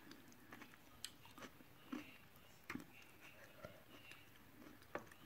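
Faint chewing of spicy instant noodles, with scattered soft clicks and smacks a second or so apart.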